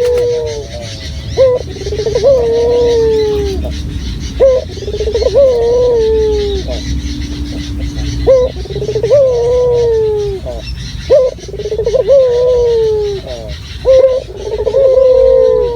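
Puter dove (domesticated collared dove) cooing over and over: about five calls, each a short sharp note followed by a long, falling coo.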